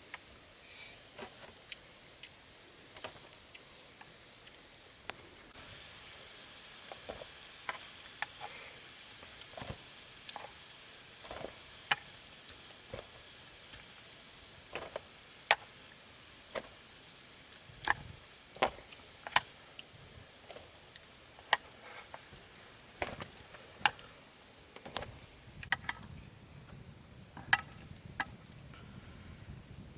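Food frying in a hot pan: a sizzle starts suddenly about five seconds in, with many sharp clicks and taps scattered through it, and dies away near the end.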